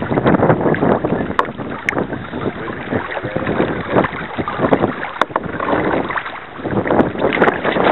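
Kayak on the water: splashing and sloshing of water around the paddle and hull, rising and falling unevenly, with wind buffeting a small keychain camera's microphone.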